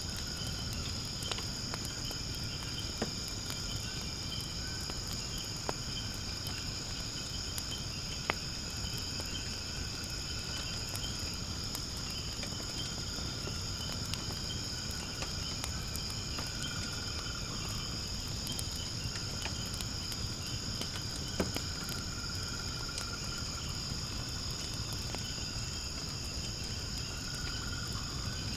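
A steady chorus of insects trilling high and continuously, over the low rumble of a wood fire in a fire pit that gives a few sharp crackles and pops.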